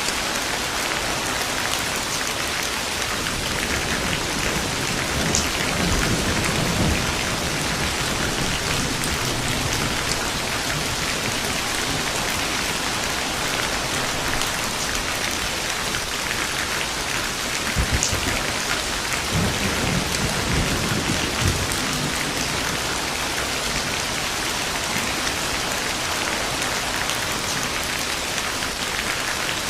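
Steady rain falling, with distant thunder rumbling low twice, about six seconds in and again about twenty seconds in.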